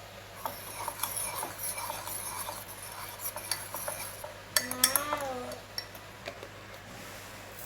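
Metal spoon clinking and scraping against a mug in a run of small quick knocks, with a few louder clinks about four and a half seconds in. A brief wavering squeak-like tone follows, lasting about a second.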